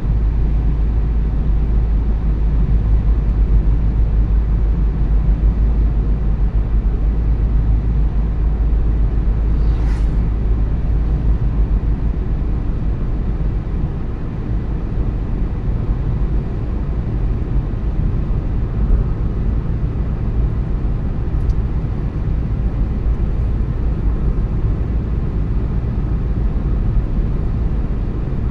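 Car driving at steady speed: a constant low rumble of tyres on the road and the engine, heard from inside the cabin. One brief sharp click about ten seconds in.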